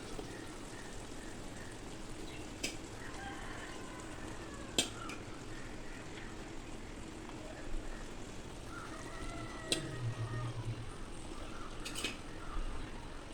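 Cooked rice being spooned onto a chicken layer in a large pot, with four sharp clinks of a metal spoon against the vessel, over a faint steady hiss.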